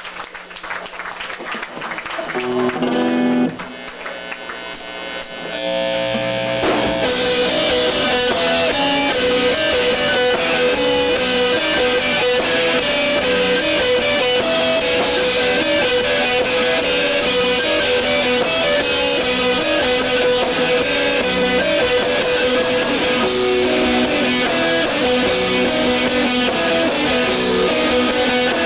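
Live rock band starting a song: an electric guitar plays a few notes alone, then about seven seconds in the full band with drums comes in loud and keeps playing.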